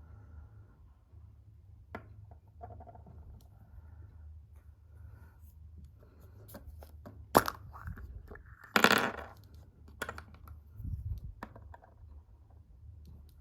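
Hands opening a surprise egg: small clicks and scrapes, a sharp click about seven seconds in, then a brief tearing rustle and a few more clicks, over a steady low hum.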